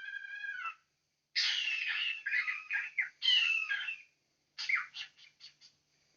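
Cockatiel calling: a short whistled note, then two harsh, raspy calls, then a quick run of short chirps that grow fainter near the end.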